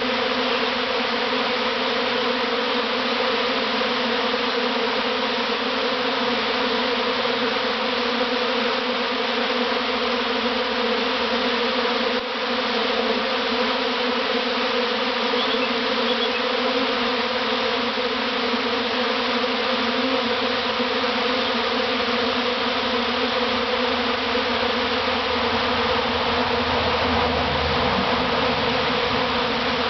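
Steady, dense buzzing of a large honeybee swarm in flight at close range, thousands of wingbeats blending into one continuous hum as the swarm moves into a new hive box.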